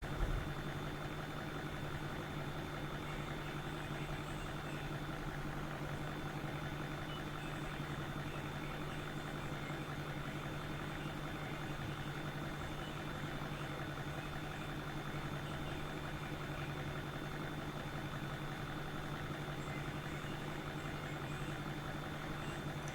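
A steady, unchanging mechanical hum with a low constant pitch.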